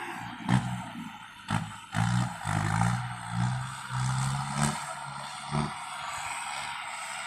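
Kubota farm tractor's diesel engine working under load while plowing heavy clay, its pitch shifting in steps, with several sharp knocks and clatters from the machinery.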